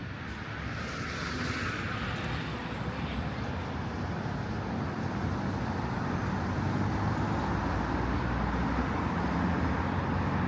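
Road traffic: a steady rumble of passing vehicles, growing louder over the first few seconds and then holding.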